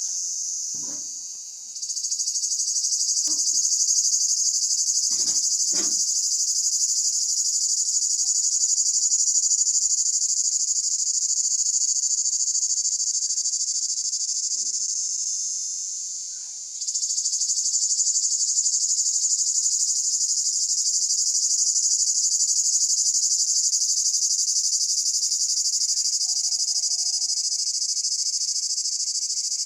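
Cicadas singing in chorus: a steady, high-pitched buzz that fades down about two seconds in and again about halfway through, each time starting back up abruptly.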